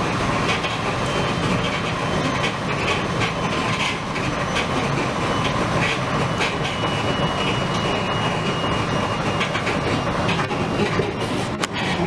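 Inside a SEPTA Silverliner V electric railcar under way: the steady rumble of wheels on rail with faint clicks over the track, and thin whining tones that come and go.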